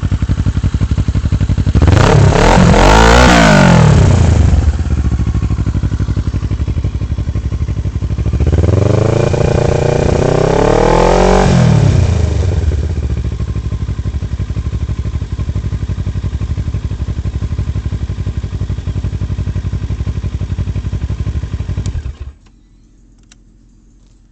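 Kawasaki Versys 650's parallel-twin engine idling through a Jardine GP-1 aftermarket exhaust with no quiet tip, very loud. It is revved up and back down twice, about 2 s and 9 s in, each rev lasting a few seconds, then idles steadily and is shut off about 22 s in.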